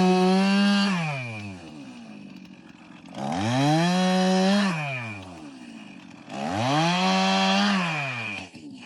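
Chainsaw revving up to cut into a tree three times, each held for about a second and a half, then dropping back to idle between cuts.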